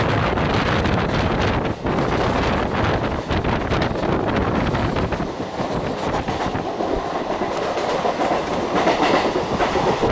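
Mumbai suburban local electric train running at speed, its wheels clattering over the rail joints.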